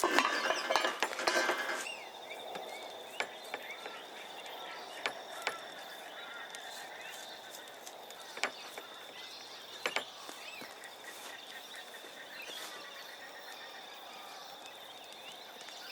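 Food sizzling in a pan, with stirring, for about the first two seconds, then cutting off. After that comes quiet outdoor bush background: a steady high-pitched drone, scattered sharp clicks and faint bird chirps.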